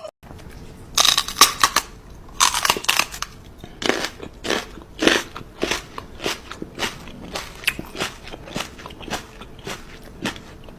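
Crunchy food being chewed up close: loud, dense crunching for the first few seconds, then settling into a steady rhythm of bites a little under two per second.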